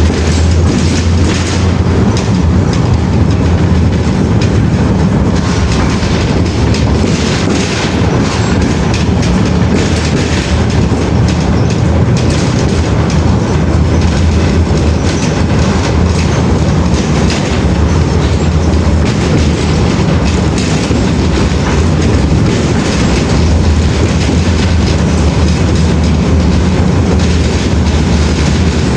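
A train running steadily on rails, with a constant low rumble and rapid clatter from the wheels.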